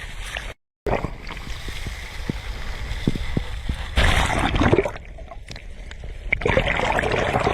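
Sea waves washing in on the shore, with a louder surge about halfway through and another near the end. The sound cuts out completely for a moment just under a second in.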